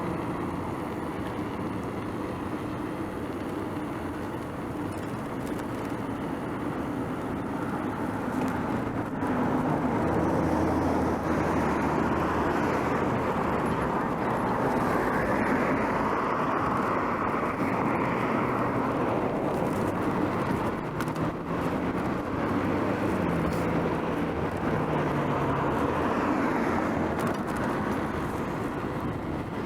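Road traffic noise heard from a moving bicycle: a steady rush of passing cars and tyres, swelling louder for several seconds in the middle as vehicles go by.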